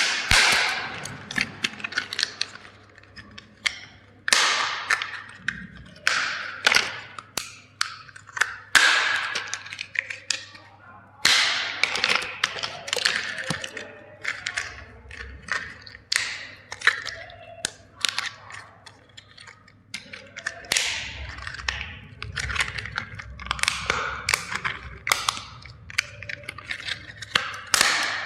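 Plastic toy vehicles being crushed: a long, irregular series of sharp cracks and snaps as the plastic breaks.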